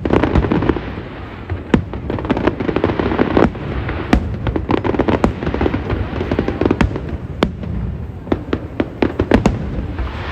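Aerial fireworks exploding: many sharp bangs at irregular intervals over a continuous rumble of bursts and crackle, with a quick run of bangs near the end.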